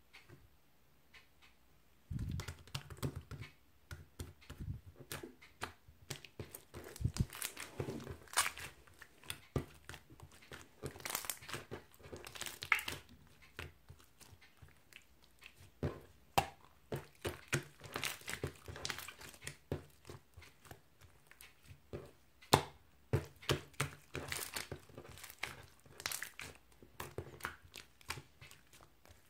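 Close-up handling of paper or plastic: irregular crinkling, rustling and tearing sounds mixed with small taps and clicks.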